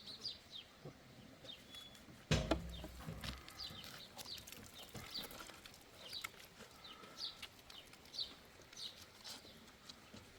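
Birds chirping over and over in short, high calls, with one loud thump a little over two seconds in.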